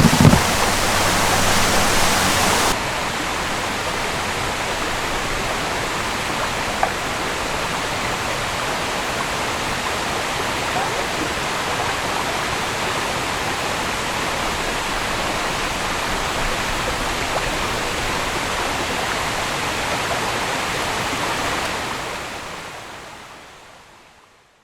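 A small creek running steadily, with a couple of brief knocks right at the start; the water sounds a little duller after about three seconds and fades out over the last few seconds.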